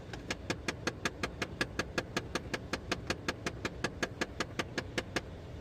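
HVAC door actuator behind the dash of a 2017 Jeep Compass clicking rapidly and evenly, about six clicks a second, then stopping after about five seconds. The clicking comes from a faulty recirculation door actuator.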